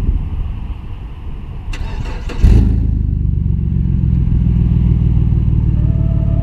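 A vehicle engine is cranked and catches about two and a half seconds in with a loud burst, then settles into a steady low idle.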